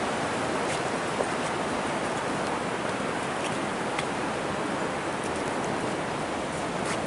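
Steady rushing of a waterfall: an even roar of falling water, with a couple of faint ticks.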